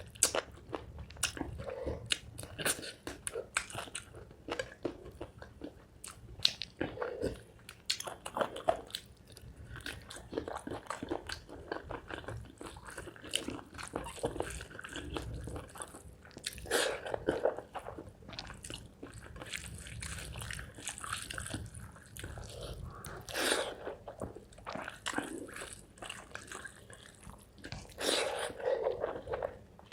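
Close-miked eating: a person chewing and biting through rice with chicken liver, gizzard and feet curry, with many sharp wet mouth clicks and short crunches. Heavier bursts of crunching come about two-thirds of the way in and near the end.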